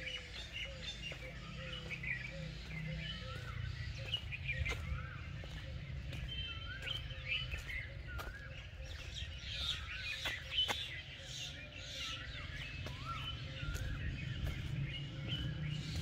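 Several birds chirping and calling together, one of them repeating a short up-and-down call every second or two, over a low steady rumble.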